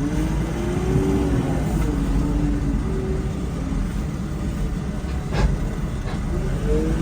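Vehicle engine running with a heavy low rumble, its note rising and falling, and one sharp knock about five seconds in.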